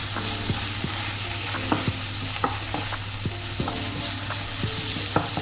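Ingredients sizzling as they fry in hot oil in a pan, stirred with a spatula that clicks against the pan at irregular intervals.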